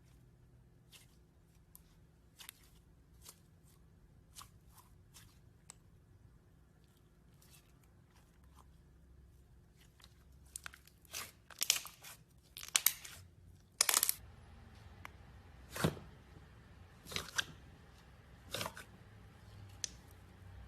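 Slime being handled, giving off scattered sharp crackles and pops: sparse and faint at first, then louder and more frequent from about ten seconds in.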